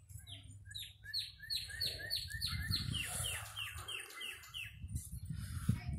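A songbird singing a long, even run of quick downslurred whistles, three to four a second, which steps down a little in pitch about halfway through. A low rumble runs underneath.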